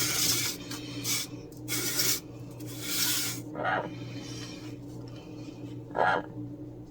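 Paper napkin rustling and crinkling in four quick bursts, with two short chirp-like calls later on.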